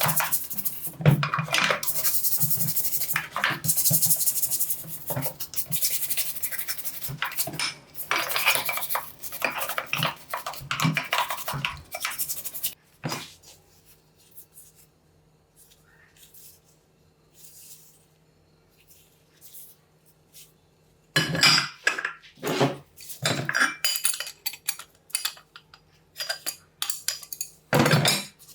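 Metal parts clinking, scraping and rattling as they are handled on a workbench. The first half is a dense, continuous clatter. A quieter stretch follows, with a faint steady hum, and then several loud separate clinks near the end.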